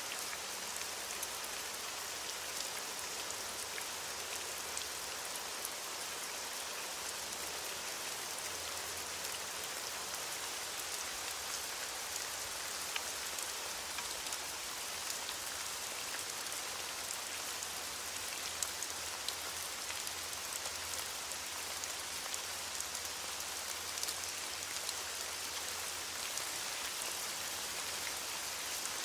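Steady heavy rain falling on a surface: an even hiss dotted with many small drop ticks, with no thunder.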